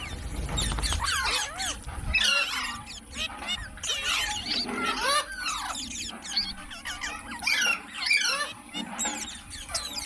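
Green parrot calling non-stop in a rapid string of short squeaky chirps and whistles that rise and fall in pitch. A low rumble sits under the first two seconds.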